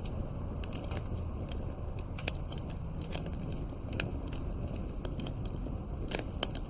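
Campfire burning steadily: wood crackling and popping irregularly over a low rumble, with a few sharper pops.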